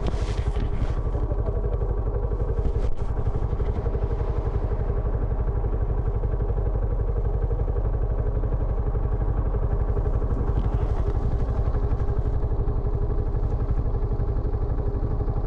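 Benelli Imperiale 400's single-cylinder engine idling steadily through its stock exhaust, an even low pulse with no revving.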